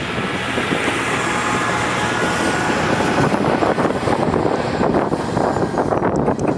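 Heisei Chikuho Railway diesel railcar running past at close range, its wheels rumbling and clattering on the rails, with a faint high wheel squeal in the first few seconds. The sound eases off near the end as the train moves away.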